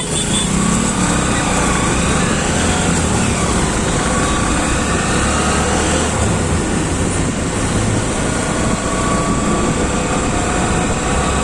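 Motorcycle ride through city traffic: steady engine and road noise with no letup.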